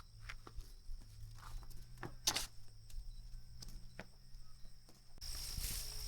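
Scattered soft clicks and rustles over a steady high-pitched drone, with one sharper click about two seconds in. About five seconds in, a louder rustling noise sets in.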